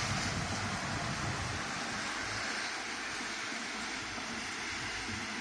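A car passing on a rain-wet street, its tyre hiss fading away after about two seconds, over the steady hiss of falling rain.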